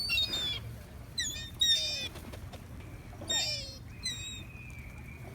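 Birds calling: several groups of short, high-pitched chirps with quiet gaps between them.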